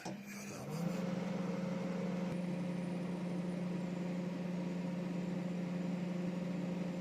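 Microwave oven running on a low power setting: a steady hum that comes up within the first second and then holds.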